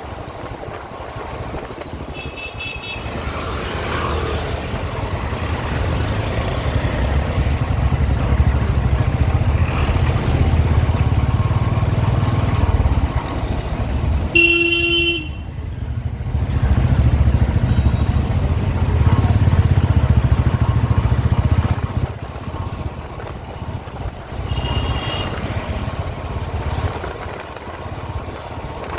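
Motorcycle engine running under way, building up from about three seconds in and easing off near the end. Vehicle horns honk in the traffic: a short toot a couple of seconds in, a louder horn about halfway, and another toot near the end.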